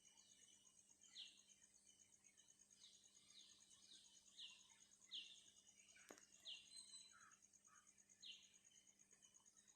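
Faint insect trill, steady and fast-pulsing, with a bird's short falling chirps repeated about a dozen times over it. A single sharp click comes about six seconds in.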